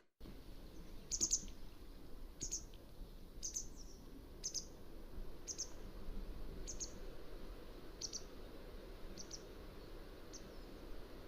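Mountain wagtail calling: a series of short, sharp, high call notes, about one a second, nine in all, over a steady faint background hiss.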